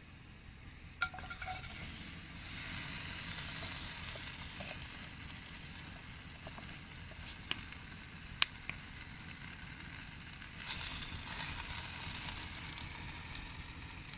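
Food frying and sizzling in a hot pan over a camp fire. The hiss swells twice, and there are a few sharp clicks.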